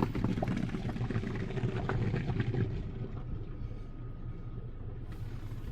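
Touchless car wash gantry spraying water onto the car, heard from inside as a hiss with scattered drips and ticks that dies down after about three seconds, over a steady low rumble.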